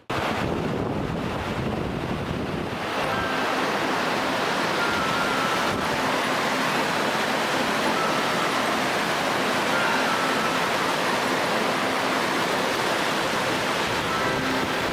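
Steady rushing noise of a mountain waterfall, constant and unbroken, starting abruptly at a cut.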